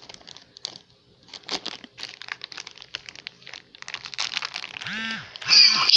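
Plastic packaging crinkling and rustling in irregular crackles as products are handled. About five seconds in, two short bouncy tones sound and background music with bell-like tones starts.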